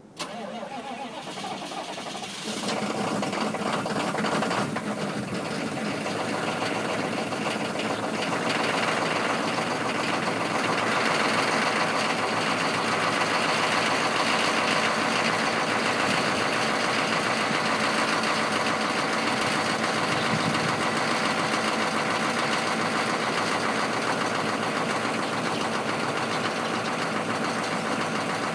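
GM 6.5-litre turbo diesel V8 cold-started at minus 15 °C on glow plugs alone: it cranks for about two seconds, catches, and settles into a steady diesel idle.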